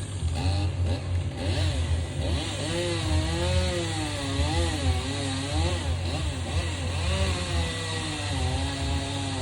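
Gas chainsaw running, its pitch rising and falling again and again as the throttle and load change, over a steady low rumble.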